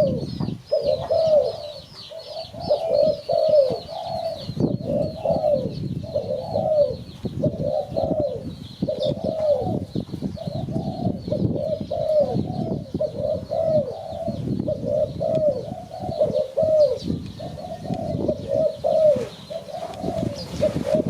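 Spotted dove cooing over and over, a string of short arched coo notes with barely a pause between them. A smaller bird's rapid high chirping runs beneath it, most clearly in the first few seconds.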